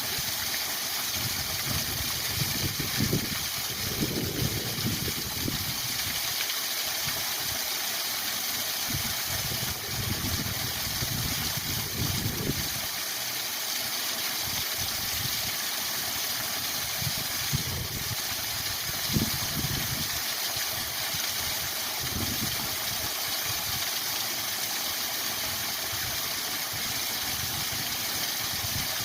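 Spring waterfall rushing: a steady, even hiss of falling water, with irregular low rumbles coming and going underneath.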